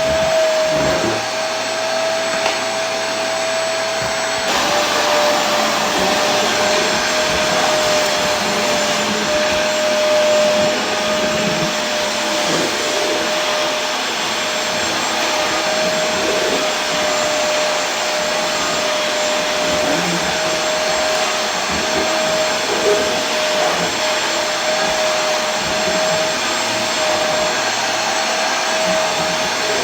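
Vacuum cleaner running steadily: an even rush of air with a steady motor whine over it, which shifts slightly about four seconds in.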